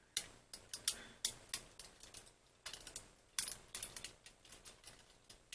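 A string of irregular light clicks and taps, about three a second, from small parts and tools being handled on a workbench.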